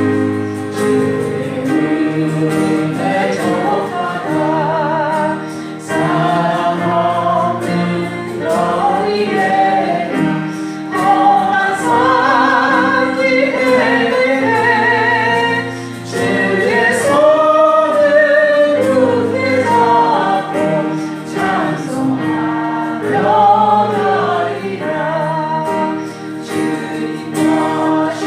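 Worship praise singing: several voices sing a gospel hymn together with vibrato on the held notes, over an instrumental accompaniment with sustained bass notes.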